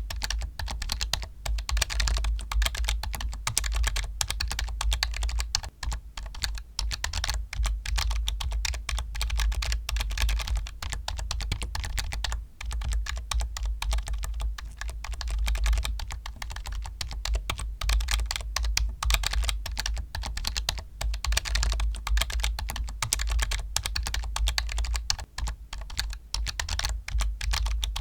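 Continuous fast typing on a computer keyboard: a dense, unbroken stream of key clicks.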